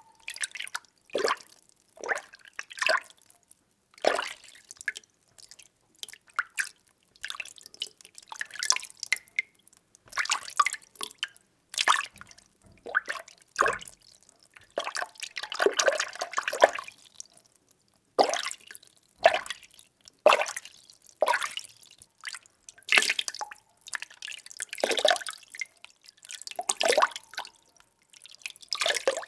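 Water being stirred by hand in a container: irregular sloshes and small splashes, roughly one every second, with a longer swirl about halfway through.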